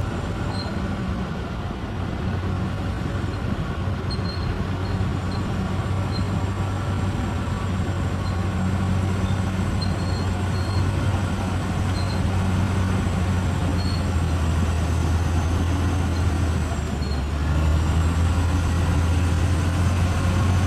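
Bulldozer's diesel engine running steadily under load, with scattered short high clinks; the engine note shifts briefly about three-quarters of the way through.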